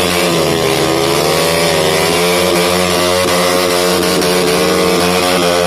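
Motorcycle engine running with its speed rising and falling as the throttle is worked, several gentle swells in pitch without stopping.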